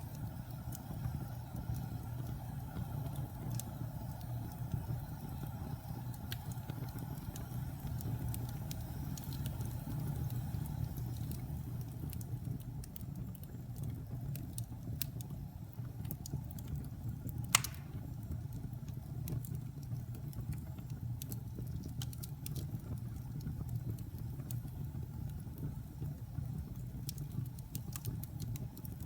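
Wood fire burning in a fireplace: a steady low roar with scattered small crackles, and one sharp, loud pop a little past halfway.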